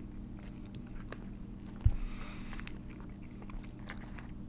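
A person chewing a mouthful of chili cheese fries, with small scattered mouth and fork clicks over a steady low hum. A single low thump comes about two seconds in.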